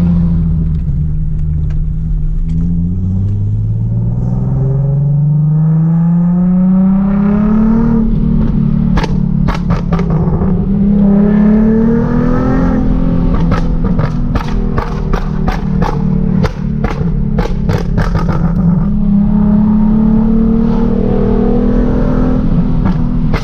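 Straight-piped Nissan 370Z's 3.7-litre V6 accelerating hard through the gears, its pitch climbing and dropping back at each shift. From about nine seconds in, rapid strings of loud exhaust pops and crackles, machine-gun style, break out on lift-off.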